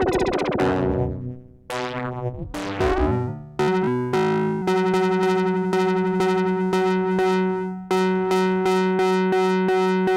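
Sequential Circuits Prophet-5 Rev 2 analog polyphonic synthesizer playing. A held chord fades out, then bright chords are struck again and again in a steady rhythm over a sustained low note, each attack dulling as it decays, with a brief break near the end.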